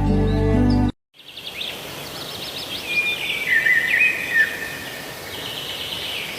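Music stops abruptly about a second in. Then birds chirp and trill in quick, high phrases over a steady background hiss.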